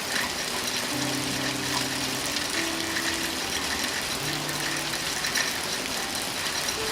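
Steady rain, a dense even hiss with scattered drop ticks. Soft low sustained music notes change every second or two underneath.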